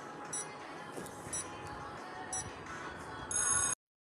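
Quiz countdown timer: a soft music bed with a short high beep about once a second, ending in a longer beep that cuts off suddenly.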